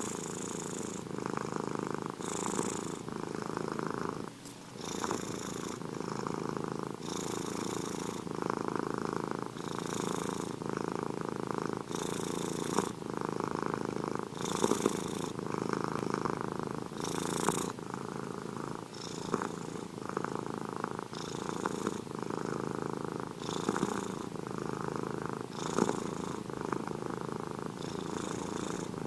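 Domestic cat purring steadily and continuously, the purr swelling and easing with each breath about every two to two and a half seconds.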